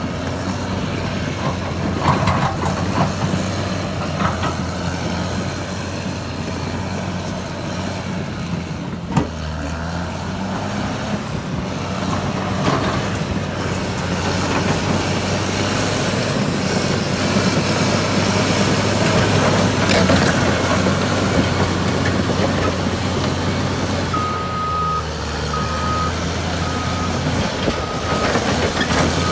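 Caterpillar D6R2 bulldozer's diesel engine running steadily under load, with occasional knocks and clanks. Near the end a reversing alarm beeps five times at an even pace.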